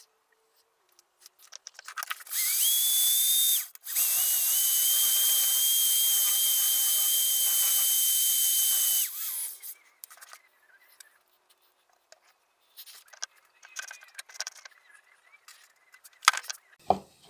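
Handheld power tool running in two bursts, a short one of about a second and a half and then a longer one of about five seconds, with a steady high whine over a hiss. After it stops come scattered light clicks and knocks, with a sharper knock near the end.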